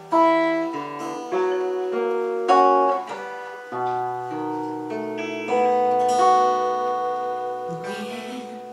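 Acoustic guitar playing the slow introduction to a romance: a series of plucked chords, each left to ring.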